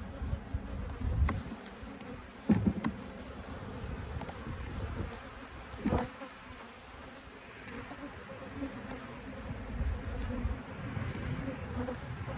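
A swarm of honeybees buzzing around an open hive as a steady, dense hum; the beekeeper says the colony is getting aggressive. A few sharp knocks cut through it, the loudest about two and a half and six seconds in.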